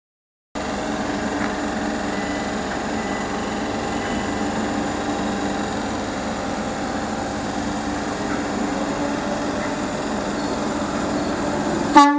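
A train at the station: a steady mechanical hum and rush with faint held tones. It follows a brief silence at an edit, and a short, loud, pitched horn-like sound cuts in right at the end.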